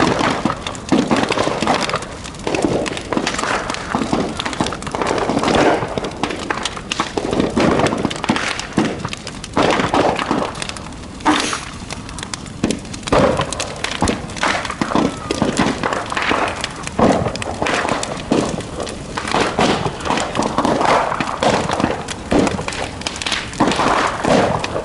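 Large bonfire burning, crackling with frequent sharp snaps and pops.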